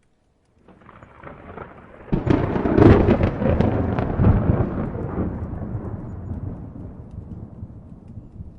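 A thunderclap: a low rumble builds, breaks into a loud crackling crash about two seconds in, then rolls on and slowly fades away.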